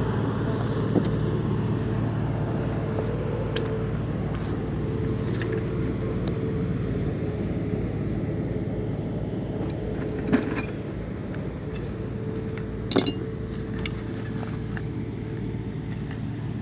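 An engine running steadily with a low, even hum. A few sharp metallic clinks of tools sound over it, the two loudest about ten and thirteen seconds in.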